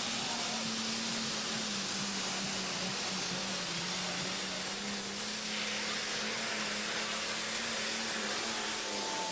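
A pulling machine's engine running at a steady speed: a continuous noisy drone with a steady low hum that drifts only slightly in pitch.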